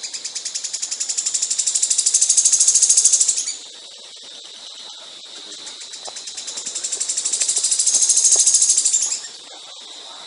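Caged songbird singing long, rapid trilled bursts of high notes, each swelling in loudness and then stopping abruptly, twice.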